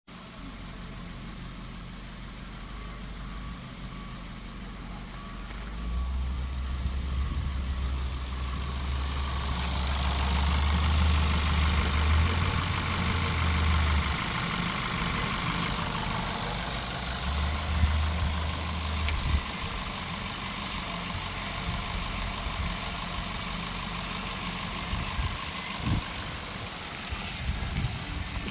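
A 2012 Ford Fiesta's 1.6-litre four-cylinder engine running, idling steadily, then louder for several seconds in the middle before settling back. There are a few short knocks near the end.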